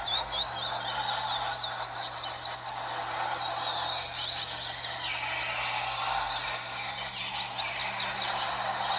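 Many double-collared seedeaters (coleiros) singing over one another: a dense run of fast, overlapping chirping phrases, over a steady background noise.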